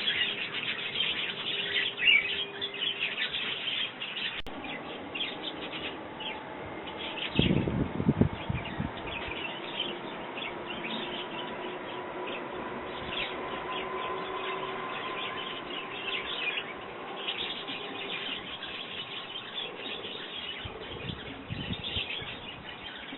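Garden sparrows chirping in busy bursts, thinning out through the middle and picking up again later. A faint steady hum lies underneath, with a brief low rumble about eight seconds in.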